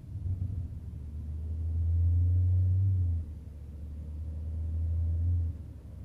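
Car engine droning low inside the cabin as the car pulls under throttle. It builds up twice, cutting off sharply about three seconds in and again near the end.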